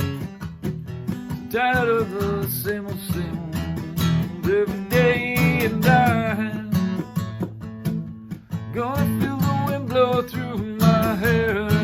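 Acoustic guitar strummed steadily with a voice singing over it in phrases, a country-style song.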